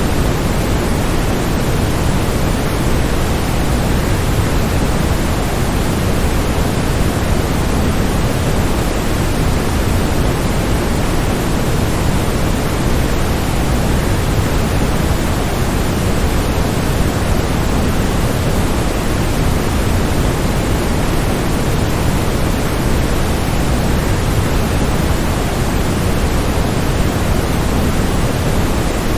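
Waterfall: the steady rush of falling water, an unbroken even noise weighted toward the low end, with no distinct splashes or changes.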